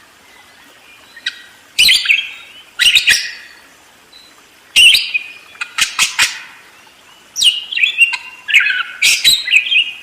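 Parakeets chattering in quick bursts of sharp, high chirps and squawks, thickening into a dense run of calls in the last couple of seconds.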